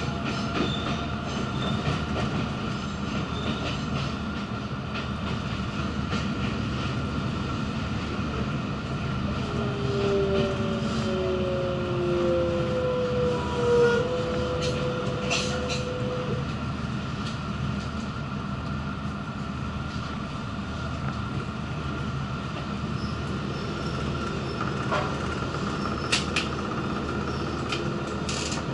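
Interior of a Kobe Electric Railway train car running and slowing into a station, with a steady rumble. About ten seconds in, a falling whine is heard as the train brakes. It fades by about sixteen seconds, leaving the steady hum of the standing car with a few light clicks near the end.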